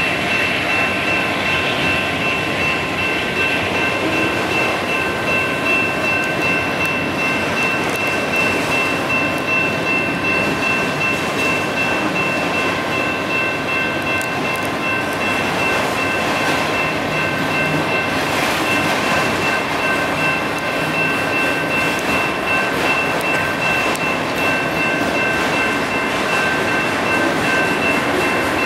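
Union Pacific autorack freight cars rolling steadily past over the crossing, with the steel wheels running on the rails. Over the train, the crossing's electronic bells (a General Signals Type 2 and a WCH Type 3) ring nonstop as a rapid, high-pitched ding, the sign that the signals are active.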